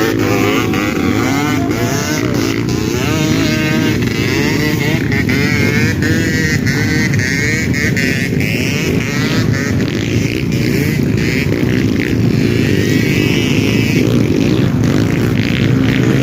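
Trail dirt bike engines revving, their pitch rising and falling continuously as the throttle is worked.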